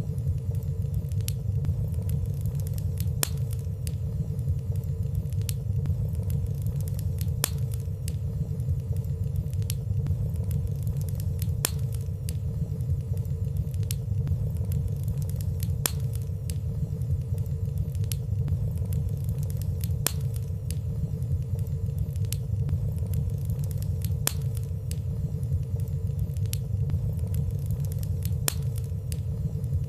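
Fire burning in a fireplace: a steady low rumble of flames with light, sharp crackles about once a second and no loud pops.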